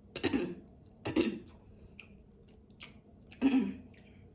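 Close-up mukbang eating noises over a seafood boil: three short, loud mouth sounds, one near the start, one about a second in and one about three and a half seconds in, with faint clicks between.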